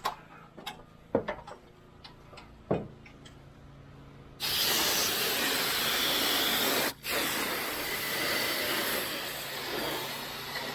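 A few light knocks, then about four seconds in a pressure washer wand opens up with a loud, steady hiss of spraying water, cutting out for a moment about seven seconds in before spraying on.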